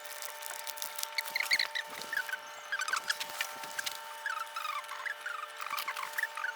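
Meat sizzling on a grill over a campfire: a busy run of short, high squeaks and chirps, some falling in pitch, mixed with light ticks.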